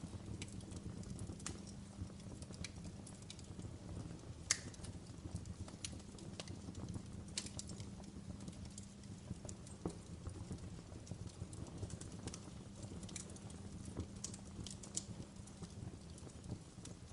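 Fire in a fireplace crackling: irregular sharp pops and snaps over a steady low rumble of the flames, with one louder pop about four and a half seconds in.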